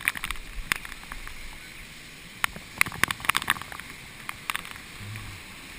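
Heavy typhoon rain: raindrops tapping irregularly on a head-mounted GoPro Hero2's housing over a steady hiss of falling rain.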